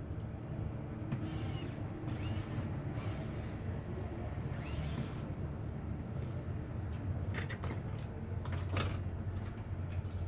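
Small mechanical handling sounds over a steady low hum: a few short scraping squeaks early on and around five seconds in, then several sharp clicks near the end.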